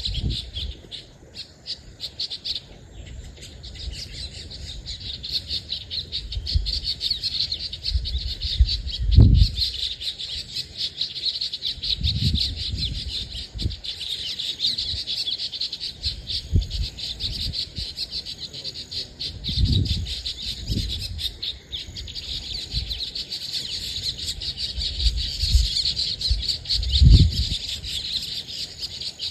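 A chorus of many birds chirping and twittering without pause, with several short low bumps scattered through, the loudest about a third of the way in and near the end.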